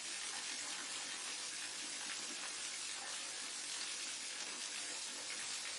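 Steady hiss of a waterfall's falling water, even and unbroken, strongest in its higher range.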